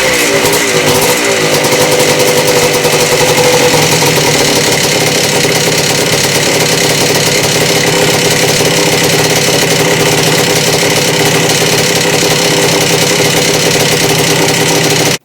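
Stick-welding arc burning a 7018 electrode on a motorcycle frame: a loud, steady crackle that wavers for the first second or so after the arc is struck, then runs on evenly and cuts off abruptly when the arc is broken.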